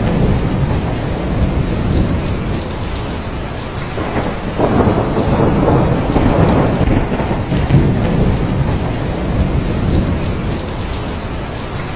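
Steady rain with rolling thunder. The rumble swells about four seconds in, then fades back toward the end.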